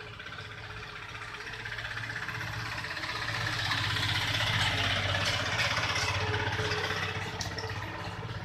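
An engine running steadily with a low pulsing hum, growing louder toward the middle and easing off again near the end.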